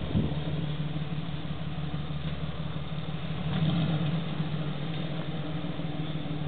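Chevrolet 4.3 V6 engine in a Model A hot-rod roadster idling steadily, swelling slightly a little past halfway, with a short knock right at the start.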